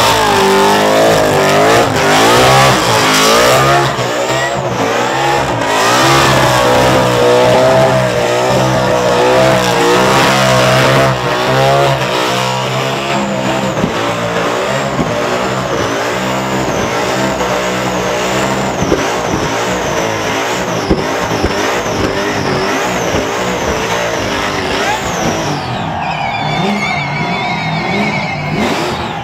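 Supercharged big-block V8 of a VF Commodore burnout car screaming at high revs, the revs rising and falling over and over, with the rear tyres spinning and skidding in a burnout.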